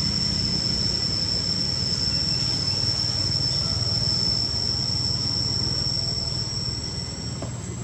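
Insect drone: one steady high-pitched whine that stops shortly before the end, over a constant low rumble.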